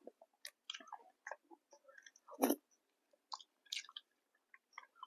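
Close-miked chewing of food: irregular wet mouth clicks and smacks, with one louder bite about two and a half seconds in.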